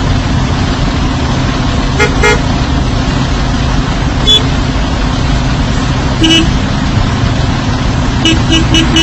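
Steady rumble of road traffic with short vehicle horn toots every few seconds, then a quick run of about eight rapid beeps near the end.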